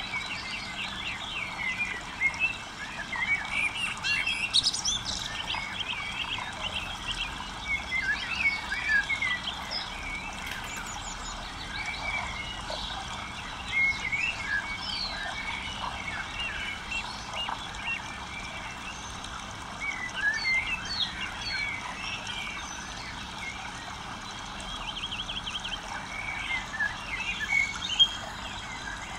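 Several small birds chirping and trilling in irregular short calls over a steady background hiss, with a brief sharp call near the end.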